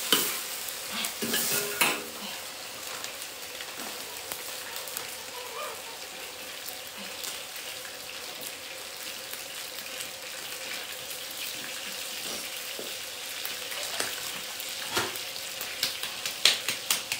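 A stir-fry sizzling in a wok, with a spatula scraping and clicking against the pan now and then, more often in the first couple of seconds and again near the end.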